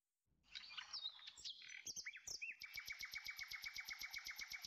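Bird chirping: a few scattered whistled chirps and glides, then a fast, even series of short chirps at about eight a second.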